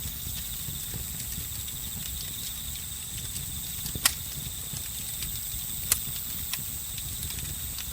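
Campfire crackling, with a few sharp pops of burning wood (the loudest about 4 and 6 seconds in), over the steady high trilling of crickets and other night insects.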